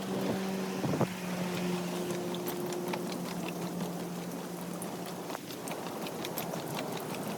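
Steady rain hiss with scattered drop taps, under a low, steady motor hum that fades out about five seconds in. A single sharp knock comes about a second in.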